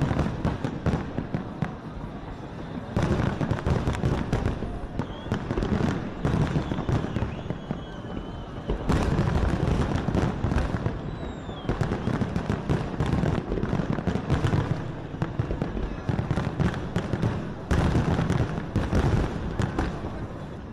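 Big fireworks display: a dense, continuous run of bangs and crackling from aerial shells bursting, coming in loud waves a few seconds long with brief lulls between them.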